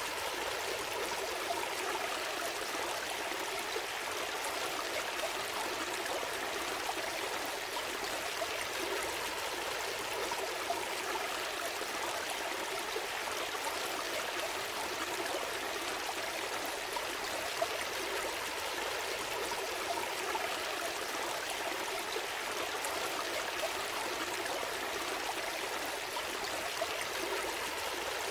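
Gentle stream flowing steadily, a continuous babble of water with small splashes and trickles scattered through it.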